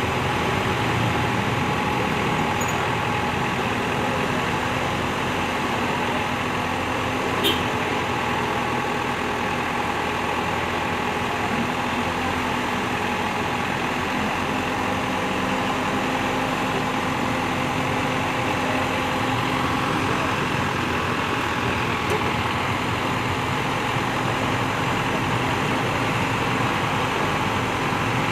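Truck crane's engine running steadily. One sharp click about seven and a half seconds in.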